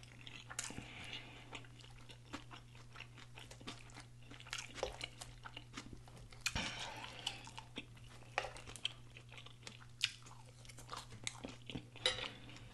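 Close-miked chewing and lip smacking of a forkful of cheese-covered fries: soft, irregular, with many sharp wet clicks, over a low steady hum.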